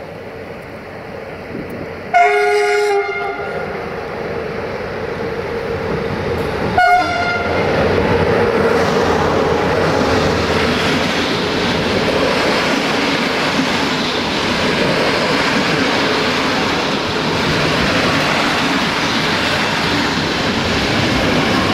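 Romanian LE5100 electric locomotive sounding its horn as the train pulls out: one blast of about a second about two seconds in, then a short toot about five seconds later. Then the passenger coaches roll past, the wheel noise growing louder and holding steady.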